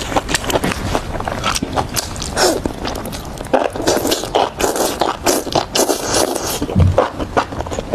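Close-miked eating: irregular wet clicks and crunches of food being bitten and chewed.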